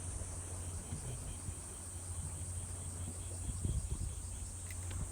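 Insects, likely cicadas, buzzing in a steady high-pitched chorus over a constant low hum.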